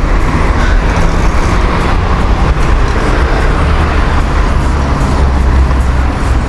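Steady low rumble of wind and road noise on a camera mounted on a moving bicycle, with town traffic around it.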